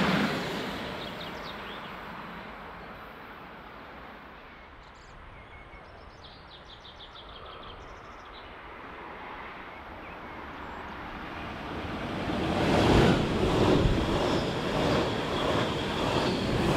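Trains passing on an electrified Swiss main line: the noise of one train dies away over the first couple of seconds, and after a quieter stretch another train approaches and passes loudly through the last third.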